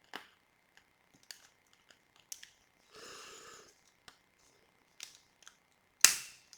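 Candle crackling: scattered sharp pops and clicks, with the loudest pop near the end, and a brief soft hiss about three seconds in.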